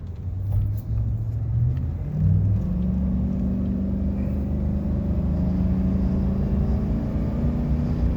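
GMC Sierra 2500HD's 6.0 V8 engine pulling as the truck speeds up, its pitch stepping up over the first two or three seconds, then running steadily at road speed.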